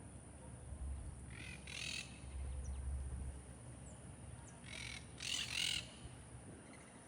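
Harsh, raspy bird calls in two bouts of two calls each, about a second and a half in and again about five seconds in.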